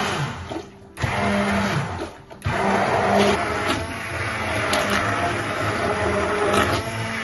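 Electric kitchen blender motor running in three bursts, stopping briefly about a second in and again about two and a half seconds in, with scattered sharp knocks during the last, longest run.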